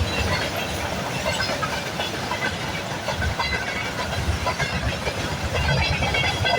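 Freight train wagons rolling past, wheels clattering steadily over the rails.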